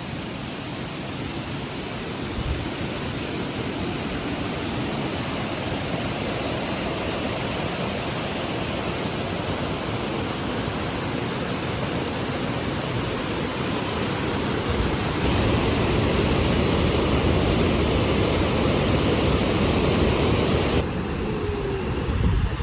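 Rushing water of the Krka waterfalls, a steady dense roar. It grows louder and fuller about two-thirds of the way through, where the shot changes.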